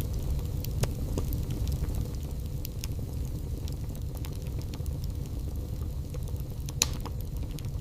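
Wood fire burning in a fireplace: a steady low rumble of flame with scattered sharp crackles and pops, one of the loudest near the end.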